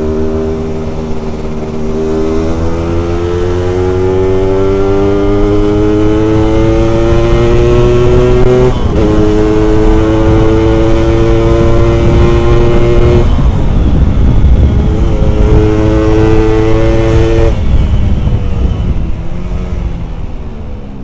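Yamaha RX-King's two-stroke single-cylinder engine pulling hard on the road. Its pitch rises steadily, drops sharply at a gear change a little before halfway, then climbs again. The throttle closes twice after that, and the engine dies away near the end.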